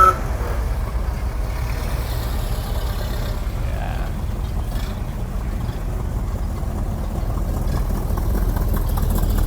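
Classic car engines running at low speed as the cars roll past, a steady low rumble that grows louder near the end. There is a brief high beep right at the start.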